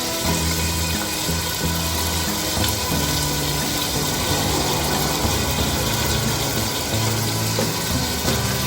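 Onions and tomato puree frying in hot oil in a saucepan, giving a steady sizzle.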